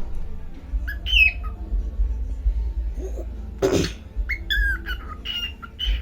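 Pet cockatiel calling: short falling whistled chirps about a second in, one harsh squawk near the middle, then a quick run of chirps and whistles.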